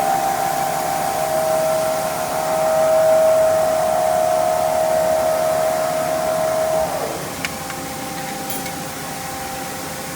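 CNC mill-turn machine running while machining a shaft: a steady high whine over hiss. About seven seconds in the whine shifts in pitch and the sound drops to a quieter, steadier run, with a couple of light clicks.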